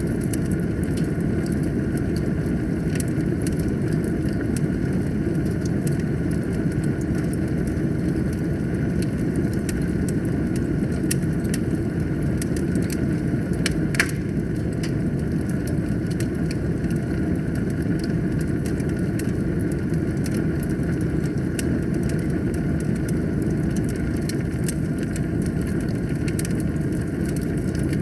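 Wood fire burning in a fireplace: a steady low rumble with frequent small crackles and snaps, and one louder pop about halfway through.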